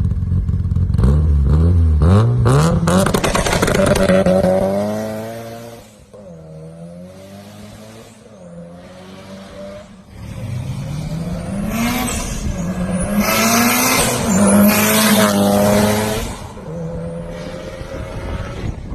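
Car engine revving through a loud exhaust with an unusual note: the pitch climbs over the first few seconds and falls away, the engine settles low and quieter for a few seconds, then it is revved up again in several climbs before dropping back near the end.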